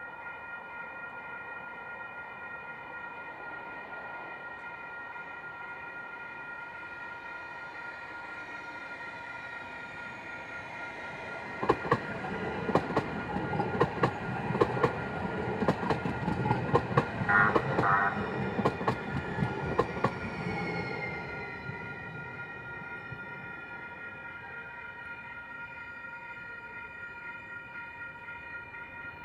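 A train rolls through a grade crossing from about twelve seconds in: a low rumble with wheels clacking over the rail joints for about nine seconds, and a brief run of quick high strikes in the middle. A steady high-pitched tone of several pitches runs underneath throughout.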